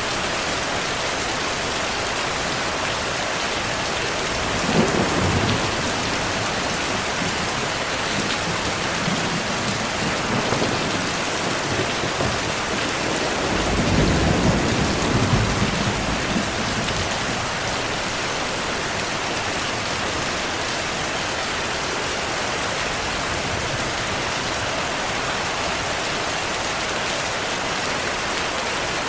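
Steady heavy rain hissing, with thunder rumbling: a short roll about five seconds in and a longer, louder rumble from about halfway through.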